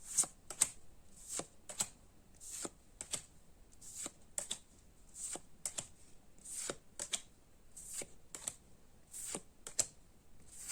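Trading cards being flipped through one at a time, each card making a short slide and a snap, in pairs about once a second.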